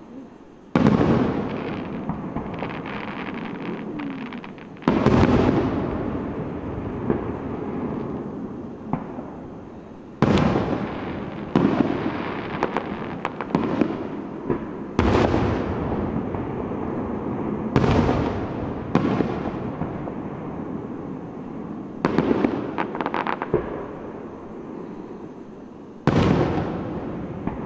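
Aerial fireworks shells bursting overhead: about nine sudden booms, each trailing off in a long fading rumble, with crackling between them.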